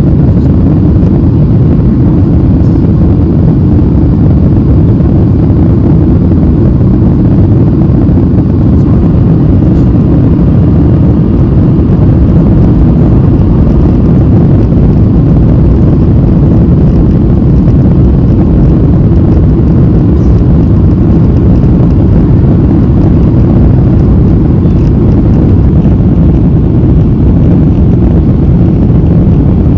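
Airliner cabin noise heard from a window seat: a loud, steady low rumble of the jet engines and the air rushing past the fuselage.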